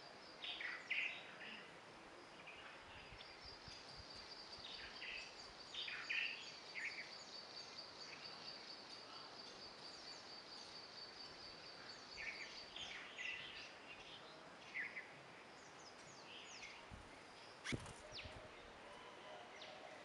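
Faint birds chirping in short, scattered calls, over a steady high trill that runs from about three seconds in until past the middle. A single sharp click near the end.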